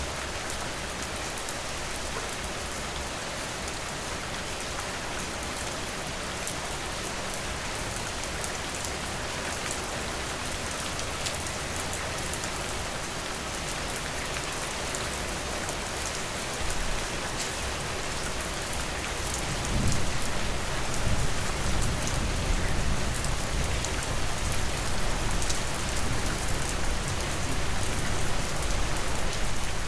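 Steady rain falling, an even hiss with scattered drop taps. About two-thirds of the way through, a low rumble joins and the sound grows louder.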